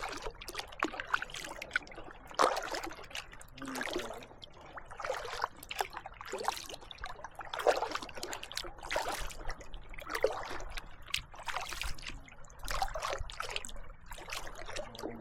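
Kayak paddle blades dipping into calm water, alternating strokes about once a second, each a splash followed by trickling drips.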